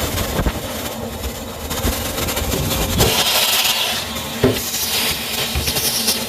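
Vacuum cleaner running, with its nozzle knocking and rubbing now and then.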